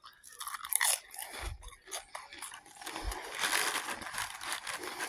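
A person biting into and chewing crispy fried chicken close to the microphone, with irregular wet crunches.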